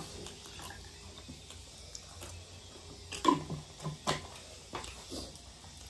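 Eating at the table: a metal spoon clicks against ceramic bowls, with a few short mouth noises of eating, the loudest about three seconds in.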